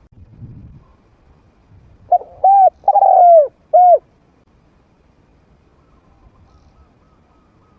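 Spotted dove cooing: one phrase of four mellow notes about two seconds in, the third drawn out and falling away. It is the medium-pitched call of a trained decoy dove.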